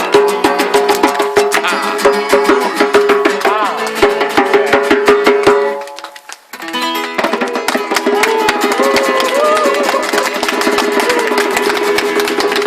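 Guitar strummed fast with a djembe playing a quick beat. The music drops out for a moment about six seconds in, then comes back with a voice singing over it.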